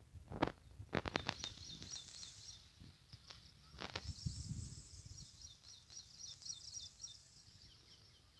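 A small bird chirping faintly in a rapid run of high notes, several a second, with brief pauses. A few sharp clicks or knocks cut in near the start and around four seconds in.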